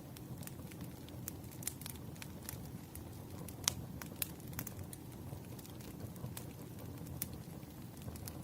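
Wood fire burning: a steady low rumble of flames with irregular sharp crackles and pops from the firewood, the loudest pop a little under four seconds in.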